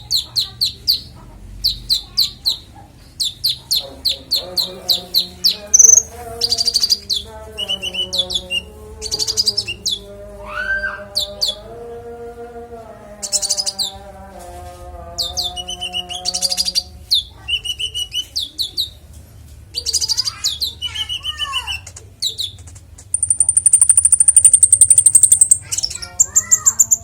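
Konin songbird singing a varied medley of rapid chirps, trills and mimicked calls of other birds, with a high fast trill near the end.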